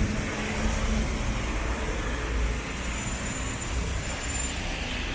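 Steady road-traffic noise, a continuous low rumble of passing vehicles.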